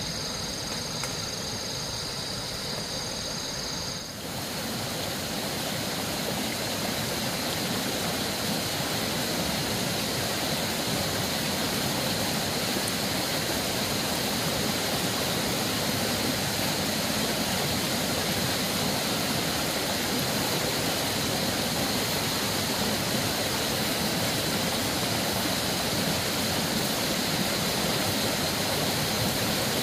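Steady rushing of flowing water, a continuous even noise that sets in abruptly about four seconds in and grows slightly louder. Before it there is a quieter background with a steady high-pitched hum.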